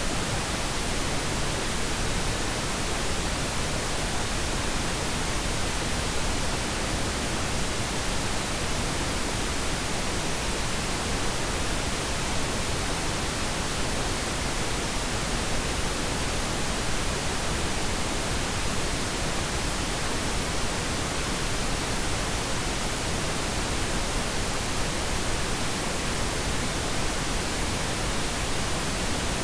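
Synthetic pink noise: a steady, even hiss spread across all pitches, softer in the highs than white noise, unchanging throughout.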